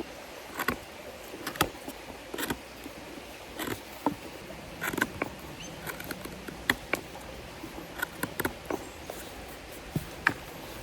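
Scattered sharp snaps and crackles of sticks and dry forest litter being handled, over the steady hiss of a flowing stream.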